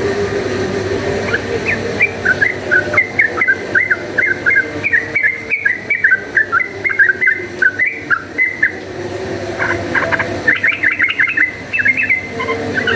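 Yellow-vented bulbul singing vigorously in a rapid chattering run of short chirping notes for several seconds, then, after a brief pause, a second quick burst near the end.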